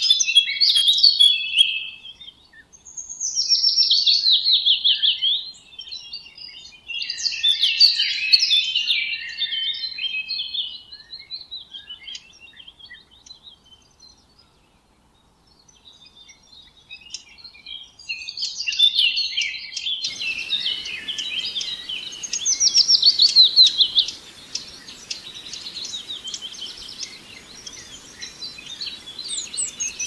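Wild birds singing in forest: phrases of rapid high chirps and trills, several seconds each, with a lull near the middle. About two-thirds of the way through, a faint steady background hiss joins the song.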